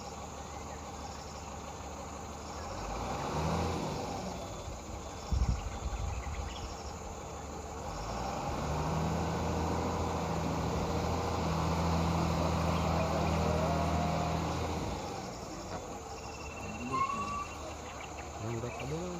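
A motor vehicle's engine hum swells and fades over several seconds as it passes, with insects chirping steadily in an even, repeating pattern. There is a single sharp knock about five seconds in.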